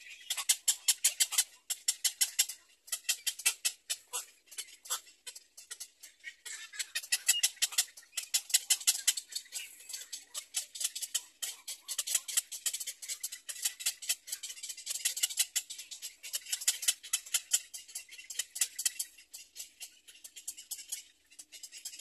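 Birds calling in a rapid, high-pitched clicking chatter, about ten clicks a second, in bursts that swell and fade.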